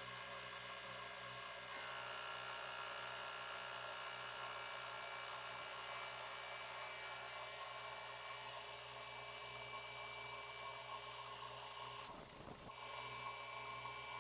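Milling machine running and taking a light 0.1 mm skim cut across a welded steel base to true up slight warping from the weld, with a short hiss about twelve seconds in.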